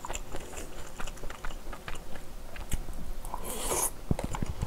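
Close-miked chewing and mouth sounds of someone eating kimchi fried rice, with many small wet clicks. About three and a half seconds in there is a brief noisy burst as food is shovelled from a bowl into the mouth with chopsticks, followed by a few sharp clicks.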